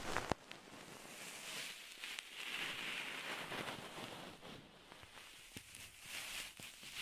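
Soft, scratchy rustling handled close to the microphone for ASMR, swelling twice, with a couple of small clicks.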